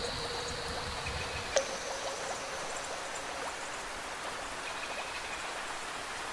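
Steady rain with trickling water, over which a few struck instrument notes ring out, one of them about a second and a half in, each held and fading slowly.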